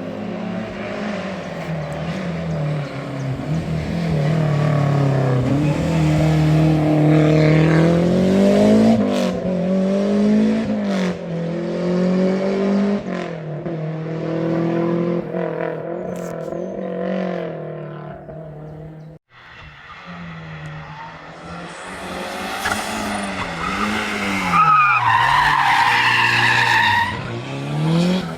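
Lancia Delta Integrale rally car's turbocharged four-cylinder engine driven hard, its pitch rising and falling repeatedly as it revs up and the gears change. The sound cuts off suddenly about two-thirds through and resumes. Near the end the tyres squeal as the car slides.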